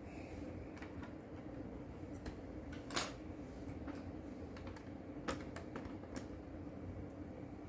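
Plastic Lego pieces clicking and tapping as they are handled and pressed into place on a build: a handful of sharp separate clicks, the loudest about three seconds in, over a steady low hum.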